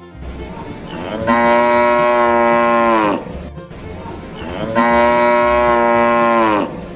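A cow mooing twice, each moo a long call of about two seconds that drops in pitch as it ends.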